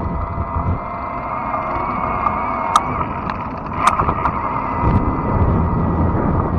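Fat-tire e-bike riding along: wind rumble on the microphone and rolling tyre noise, with a faint steady whine. Two sharp clicks or rattles come near the middle.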